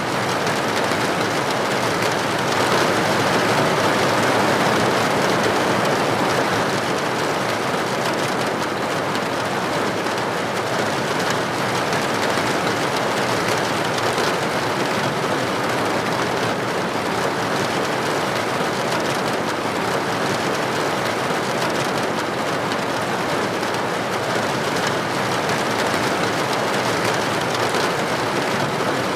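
Steady rain falling: a dense, even hiss of countless drops with no single drop standing out, swelling slightly a few seconds in.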